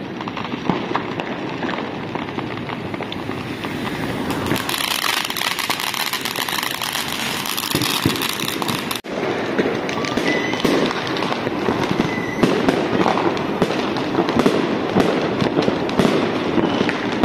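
Many fireworks and strings of firecrackers going off at once: a dense, continuous crackling and popping with sharper bangs scattered through. It breaks off briefly about halfway, then carries on a little louder, with a couple of short whistles.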